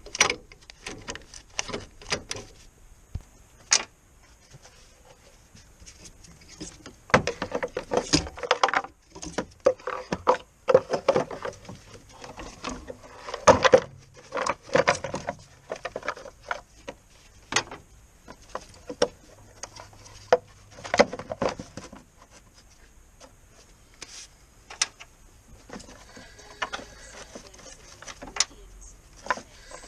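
Irregular clattering and knocking of metal tools and parts being handled during a clutch job. The knocks come in clusters with short quiet gaps between them.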